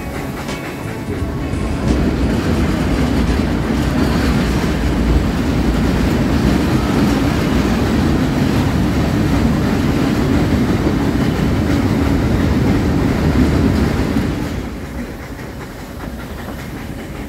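Nilgiri Mountain Railway toy train running along its track, heard from aboard: a steady low rumble of wheels and carriages that grows louder about two seconds in and drops off noticeably near the end.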